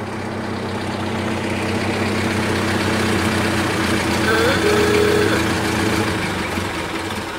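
Car engine idling steadily, with a brief rising tone and then a held tone about four to five seconds in.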